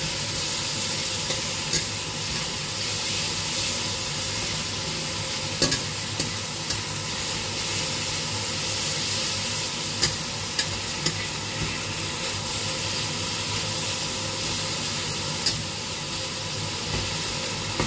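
Sliced beef and white onion sizzling in hot oil in a stainless steel wok, stirred with a long metal utensil. The utensil clinks sharply against the pan a few times.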